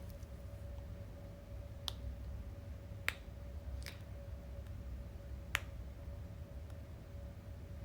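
Four short, sharp clicks spread over several seconds, over a low steady room hum with a faint steady tone.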